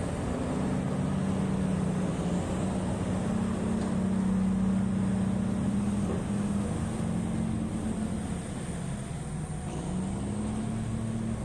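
Heavy mining machine's large diesel engine running, its pitch wavering and rising near the end.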